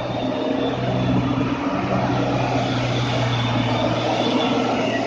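Truck engine running with a steady, even drone.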